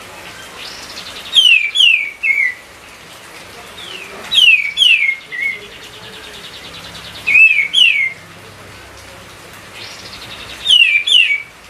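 Kapas tembak songbird singing in an excited state: four short loud phrases of quick, sharply falling whistled notes, repeated about every three seconds, with softer trilling between them.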